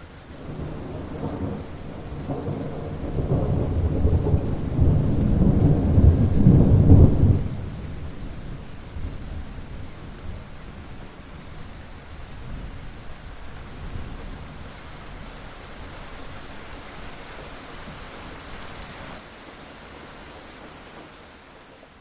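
Thunderstorm: a long roll of thunder builds over the first seven seconds and stops abruptly, leaving steady rain falling.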